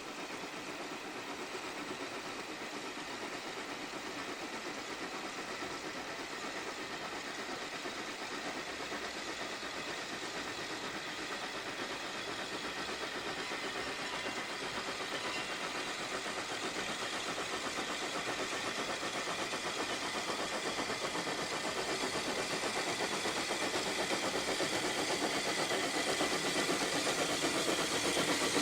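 Steam locomotive working a train, its sound growing steadily louder as it approaches.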